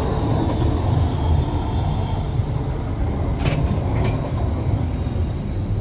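Basel Flexity tram running, heard from inside: a steady low rumble of the running gear, with a high thin wheel squeal fading away over the first couple of seconds and a sharp click about three and a half seconds in.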